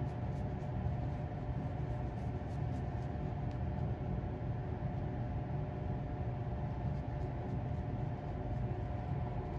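A steady low mechanical hum with a faint constant tone over it, unchanging throughout.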